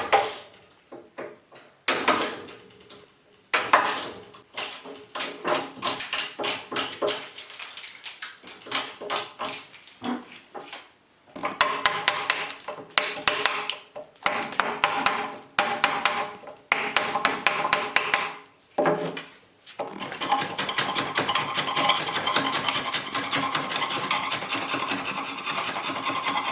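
Hand tools working wood: an irregular run of knocks and taps, then a steady rubbing in the last several seconds.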